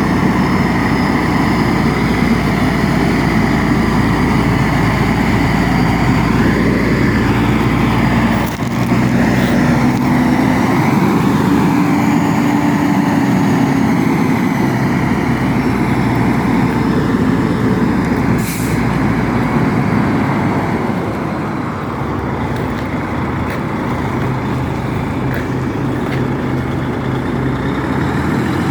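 DAF truck's diesel engine running steadily as the truck drives, its pitch rising and falling slowly, with a brief hiss about two-thirds of the way through.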